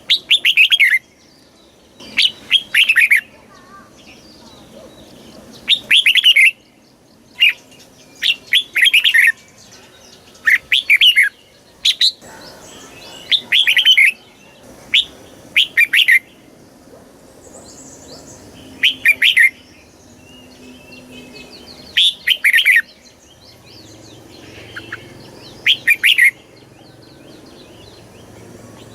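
Red-whiskered bulbul singing: short, loud phrases of a few quick falling notes, repeated about every two seconds.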